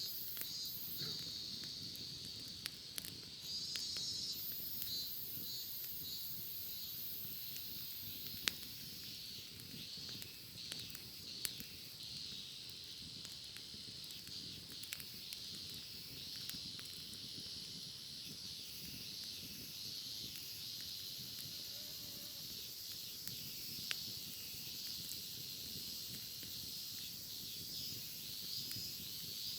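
Cicadas singing in a continuous high chorus with pulsing phrases, over a campfire crackling with a few sharp pops.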